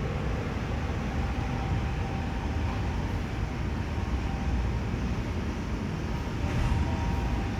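Steady low rumble of vehicle engines running, with a faint steady whine above it.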